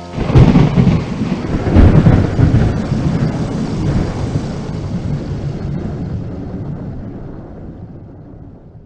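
A loud thunderclap: a sudden crack that rolls into a deep rumble with a second surge about two seconds in, then slowly fades away.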